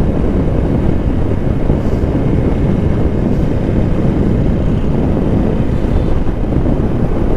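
Wind noise rushing over the camera microphone on a moving motorcycle, a steady low rumble at road speed.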